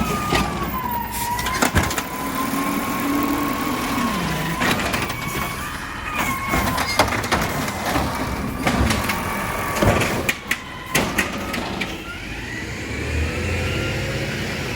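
Garbage truck working: a steady high whine that drifts slowly in pitch over the engine, with several sharp bangs and clanks, a cluster of them about ten seconds in.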